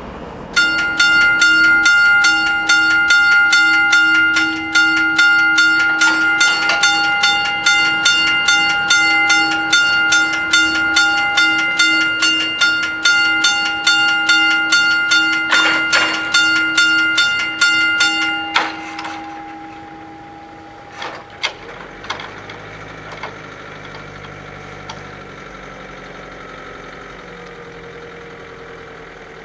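Level-crossing warning bell ringing in fast, even strokes for about eighteen seconds, then stopping suddenly. This is the signal that the crossing is closing for an approaching train. Afterwards a vehicle engine idles quietly.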